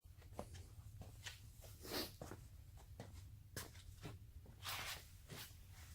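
Faint room tone with a low steady hum, broken by scattered light clicks and a couple of soft rustles, about two seconds in and near the end.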